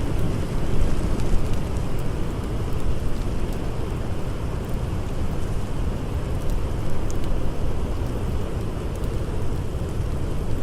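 Blizzard wind blowing as a steady, low noise, with a few faint crackles from a campfire.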